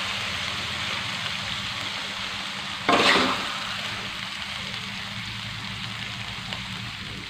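Squid sambal sizzling in oil in a wok, the sizzle slowly dying down after the stove is turned off. About three seconds in, a metal spatula scrapes briefly against the wok.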